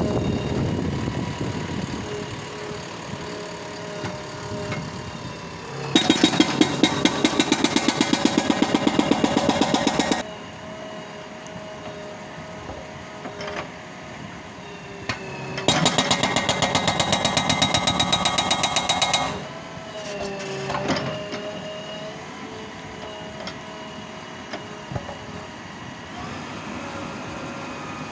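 JCB 3DX backhoe loader's diesel engine running, with two bursts of rapid, rhythmic hammering from a hydraulic breaker, each about four seconds long.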